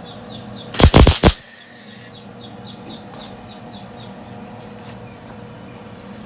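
A single tack weld on sheet-metal floor pan: a short, loud crackling burst of the welding arc about a second in, lasting about half a second, with a fainter hiss trailing off for under a second after it.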